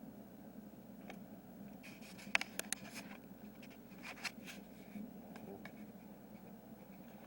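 Aerosol can of oven cleaner sprayed onto a transmission case in two short bursts, about two seconds in and again about four seconds in, with a few sharp clicks. A low steady hum lies underneath.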